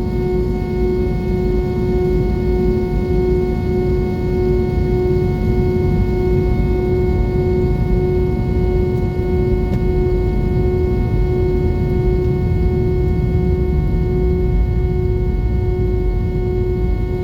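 Airbus A320 cabin noise: a steady jet-engine drone and rushing air with a constant hum running through it, unchanged throughout.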